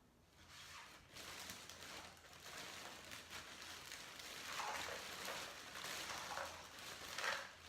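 Faint rustling and light shuffling of cardboard jigsaw puzzle pieces being handled on a table, with a few slightly louder soft scrapes in the second half.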